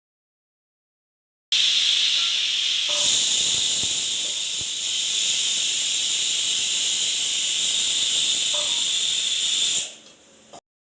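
A loud, steady hiss starts abruptly about a second and a half in and fades out quickly near the end.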